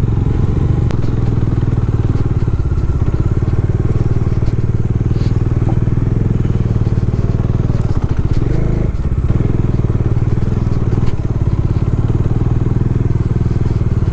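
Bajaj Dominar's single-cylinder engine running steadily at low speed on a rough off-road trail.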